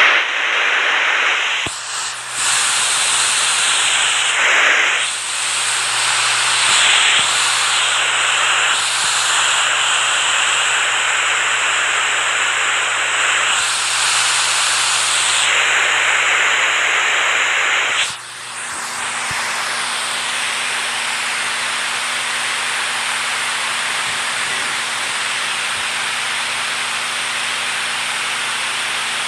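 Loud rushing water, a dense hiss that swells and shifts every few seconds, then breaks off about two-thirds of the way through and gives way to a steadier rush of water.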